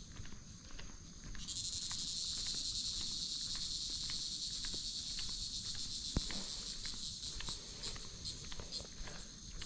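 A loud, high-pitched insect buzz switches on about a second and a half in and holds steady, easing off near the end. Faint footsteps tick underneath.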